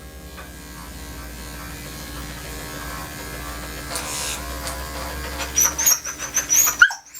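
Electric dog-grooming clippers running with a steady hum that grows louder as they work through the coat. Near the end there are sharp, high-pitched yips from the dog, and the clippers switch off just before the end.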